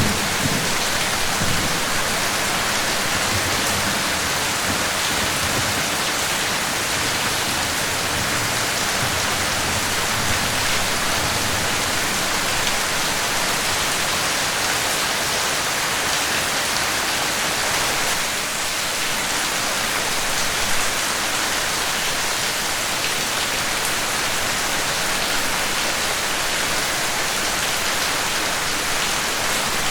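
Steady, heavy rain falling and splashing on surfaces, an even hiss throughout. A low rumble of thunder fades out in the first seconds.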